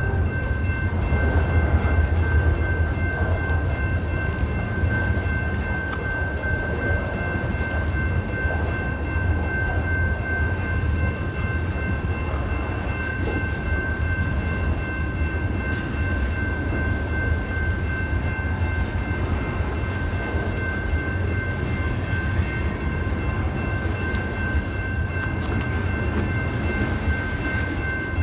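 A train rolling steadily past: a continuous low rumble of wheels and cars, with a steady high whine held over it.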